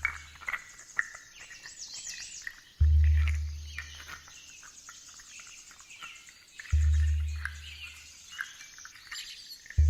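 Deep, slow drum beats about every four seconds, each ringing out and fading, over birdsong and chirping insects.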